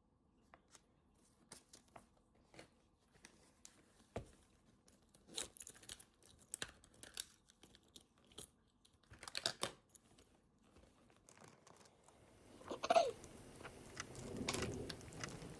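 Soft, scattered clicks and taps with paper rustling: the small handling sounds of someone studying at a desk. There is a longer stretch of rustling about thirteen seconds in.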